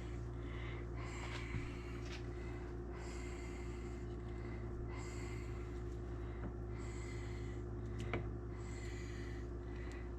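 A person breathing close to the microphone, about one breath every two seconds, over a steady low hum. There are a couple of faint clicks.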